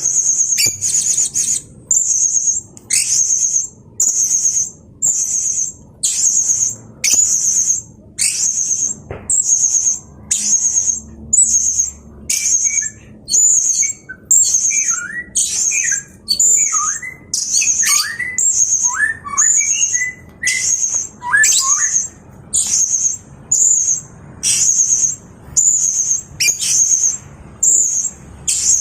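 Blue-crowned hanging parrot (serindit) calling vigorously: a shrill, high-pitched trilled call repeated about once a second, each lasting around half a second. Softer, lower chirps fill the gaps through the middle stretch.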